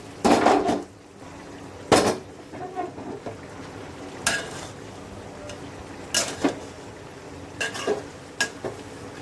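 A metal spoon or spatula knocking and scraping against a cooking pot while stirring, in about six separate clatters, a cluster near the start and the rest spaced through, some with a short metallic ring. A steady low hum runs beneath.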